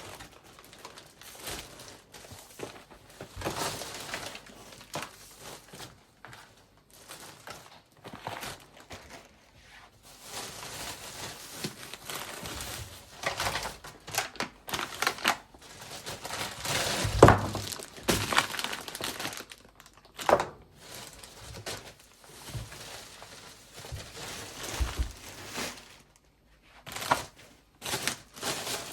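Kitchen handling sounds: irregular rustling and crinkling with scattered knocks of utensils and containers, and one sharp knock about 17 seconds in.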